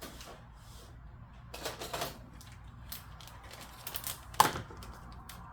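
Plastic packaging being cut open by hand: scattered small clicks and rustles, with one sharp click about four and a half seconds in.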